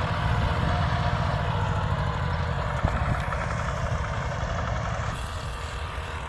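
Tractor engine running steadily, a low throbbing rumble that slowly gets fainter.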